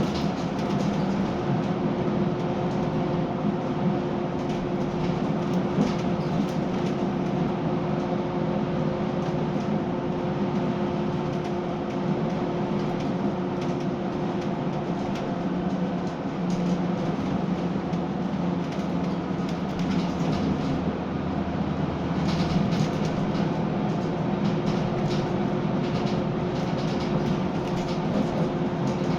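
Scania K320UB city bus's diesel engine running steadily on the move, heard from on board: an even drone with a constant hum over road noise. A few light rattles come in near the end.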